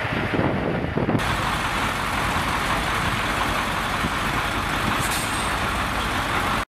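Steady road and engine noise of a moving vehicle, a dense rushing sound. It changes abruptly about a second in and cuts off suddenly near the end.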